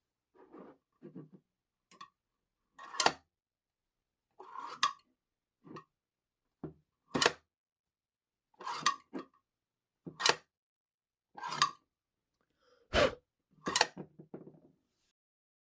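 A series of sharp clicks and clacks, about nine loud ones spaced roughly one to one and a half seconds apart, with softer rustling handling noises before and between them: hard objects being handled and set down.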